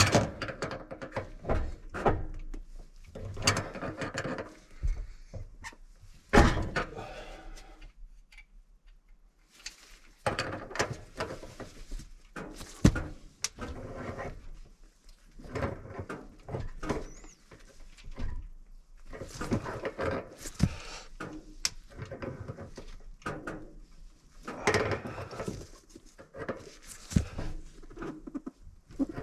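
Hand work on gas piping: irregular knocks, clicks and scraping as pipe, fittings and tools are handled, with a short lull near the middle.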